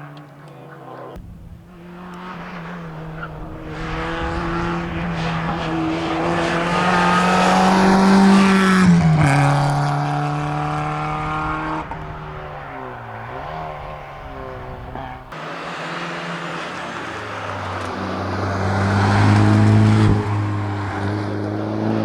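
Rally car engine under hard acceleration, its pitch climbing to a peak and dropping sharply about nine seconds in, then climbing again near the end.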